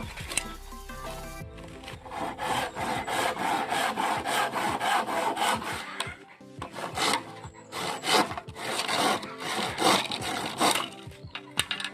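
Handsaw cutting through bamboo in a run of quick back-and-forth rasping strokes. The strokes stop about a second before the end.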